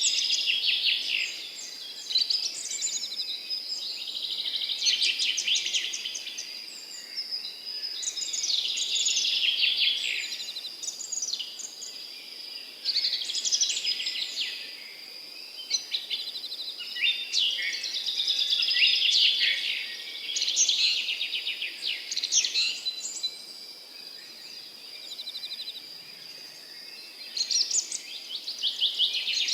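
Songbirds singing in the open: bursts of chirps and fast trills come every few seconds, with a quieter lull shortly before the end. A thin, steady high-pitched tone sounds underneath throughout.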